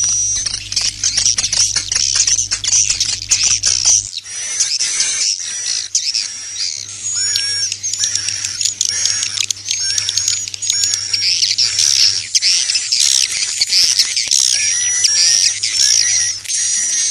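Dense chorus of edible-nest swiftlets twittering, many high chirps and short trills overlapping: a recorded roosting ('inap') lure call of the kind played in swiftlet houses. A low hum runs beneath, dropping out about four seconds in and returning a few seconds later.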